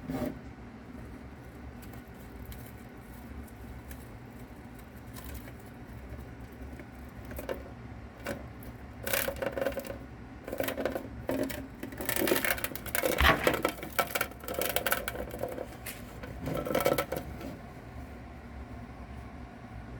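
Irregular rustling, scratching and crackling as a mouse attacks and chews a live cicada. The sounds come in short clusters, busiest and loudest in the middle, over a steady low hum.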